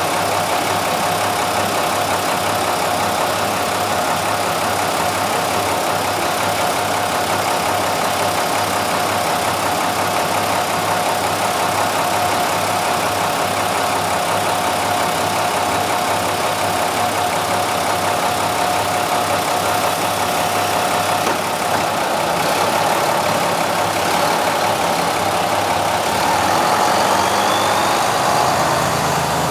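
Diesel railcar engine idling steadily, with a constant high whine over the rumble that stops about two-thirds of the way through. Near the end the sound grows louder and a short rising whine is heard.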